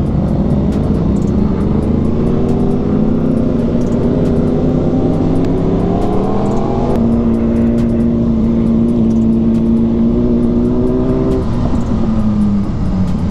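BMW M1000RR's inline-four engine running under way, heard with wind noise from the rider's position. Its pitch climbs about four seconds in, holds steady, then falls near the end as the bike slows.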